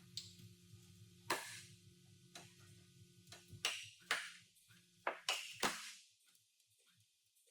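Sharp metallic clinks and knocks from hand work on a car body, about seven in all and irregularly spaced, over a low steady hum that stops about six seconds in.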